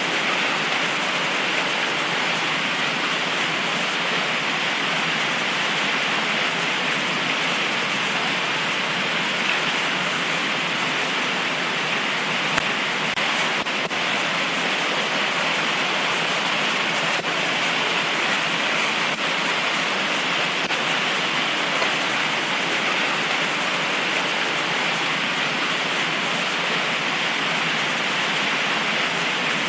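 Heavy tropical rain falling steadily, a dense, even hiss with no thunder.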